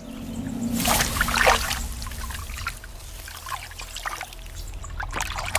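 Shallow water splashing and trickling, with a louder splash about a second in and smaller splashes after it.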